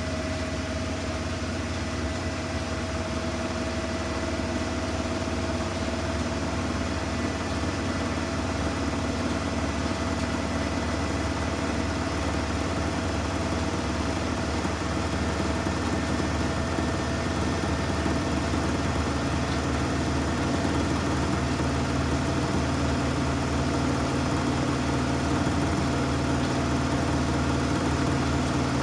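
Samsung washing machine spinning its drum: a steady motor whine over a low hum, growing gradually louder.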